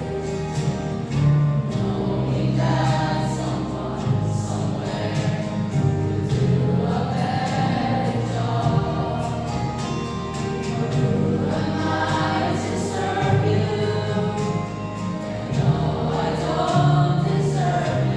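A school choir singing a gospel-style song together.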